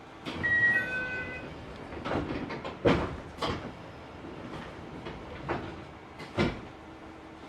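Push-button door of a stopped commuter train: a short chime of a few tones, then several knocks and thuds as the sliding doors work, over the carriage's steady hum.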